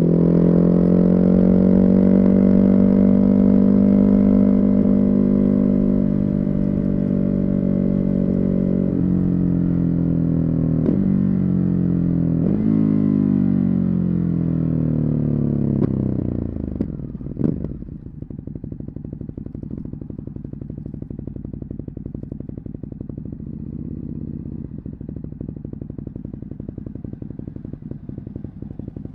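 Ducati Hypermotard 950's Testastretta 11° V-twin with a Termignoni exhaust, running under steady throttle and then slowing with several downshifts. After a short blip about two-thirds of the way in, it settles to a steady idle.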